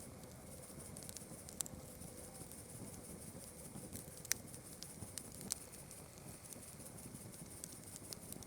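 Campfire crackling, with scattered sharp pops from the burning wood, the loudest about four seconds in. Behind it, a steady high-pitched chorus of night insects.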